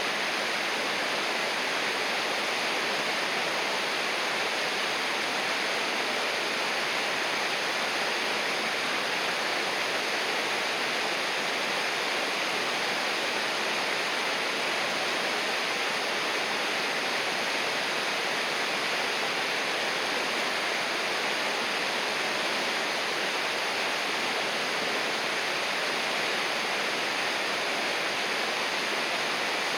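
River water rushing steadily, a constant even splash and hiss without a break.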